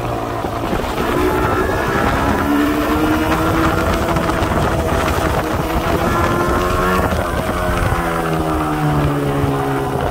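Yamaha RD350 31K's two-stroke parallel-twin engine pulling along the road. Its pitch climbs over the first few seconds, dips midway, climbs again, and then falls away in the last few seconds as the throttle is eased off.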